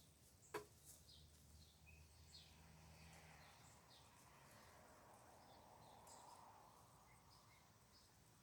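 Near silence: faint outdoor ambience with scattered bird chirps and a single sharp click about half a second in.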